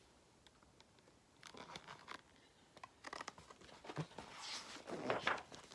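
Faint paper rustling and scratching as a picture book's page is handled and turned, starting about a second and a half in and growing a little louder toward the end.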